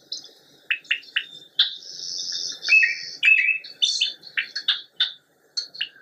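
Songbirds chirping and singing: a quick run of short, sharp chirps mixed with a few longer whistled notes, thinning out near the end.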